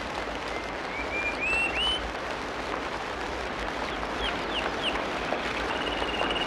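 Tropical rainforest ambience: a steady hiss of rain or running water, with birds whistling over it: a few short rising whistles in the first two seconds, three quick down-sweeping notes past the middle, and a long held whistle near the end.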